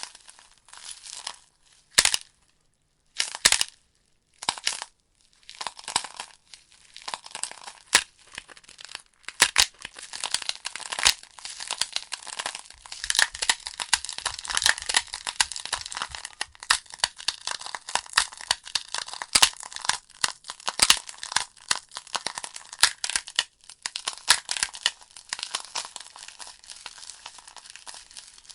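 Wood logs burning in a fireplace, crackling and popping. A few isolated pops come in the first several seconds. After that the crackling becomes dense and continuous.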